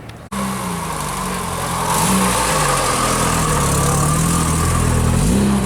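Car engine running and being revved, its pitch rising briefly about two seconds in and again near the end, over a steady hiss.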